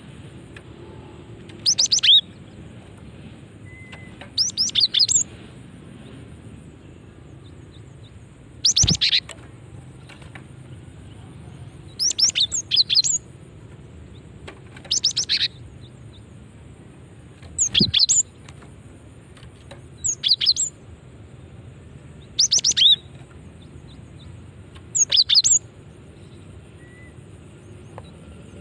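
Female cinereous tit (gelatik batu) calling: nine short bursts of rapid, high-pitched notes, each about half a second long, repeated every two to three seconds.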